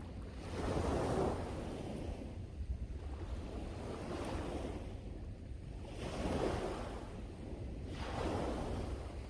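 Sea waves breaking and washing on the shore, rising and falling in several swells. A steady low rumble of strong wind on the microphone runs underneath.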